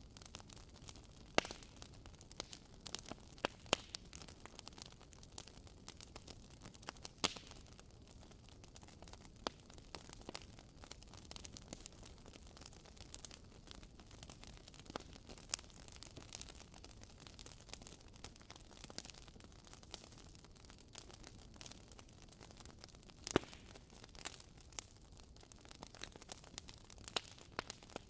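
Wood fire crackling in a fireplace: a low steady hiss with irregular sharp snaps and pops, a few louder pops standing out.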